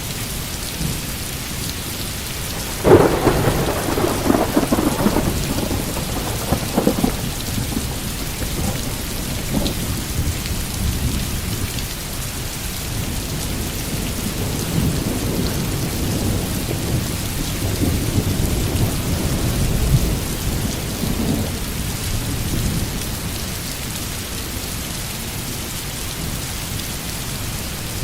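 Thunderstorm: steady heavy rain hissing throughout, with a sudden thunderclap about three seconds in that rumbles on for several seconds, and a second, lower rolling rumble of thunder through the middle of the stretch.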